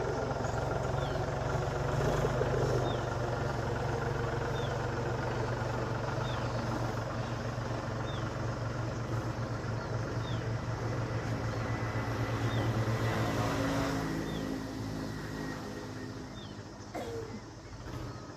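A steady low engine hum that eases off in the last few seconds, with a faint short high chirp repeating about once a second.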